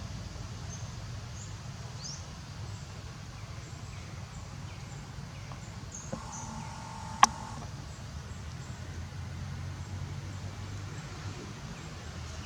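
Outdoor ambience: a steady low rumble with faint, short high-pitched bird chirps repeating throughout, and a single sharp click a little past the middle.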